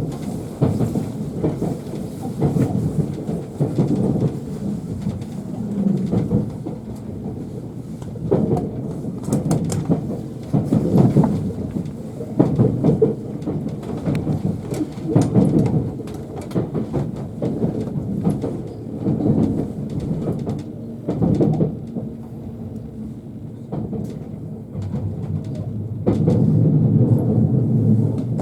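Low rumble of a train carriage in motion, swelling and easing every few seconds.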